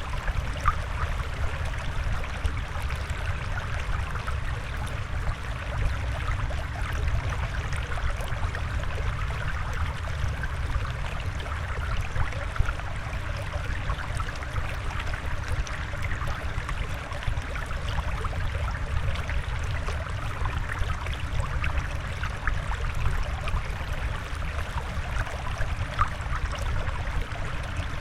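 Water flowing and trickling steadily, with a low rumble underneath and small splashy bubbling on top.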